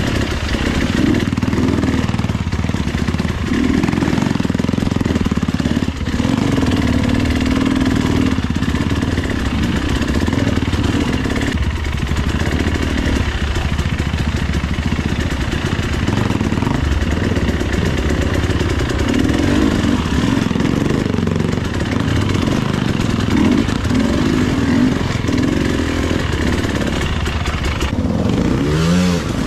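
Husqvarna TE 300i two-stroke enduro motorcycle engine running as the bike is ridden, its revs rising and falling continually.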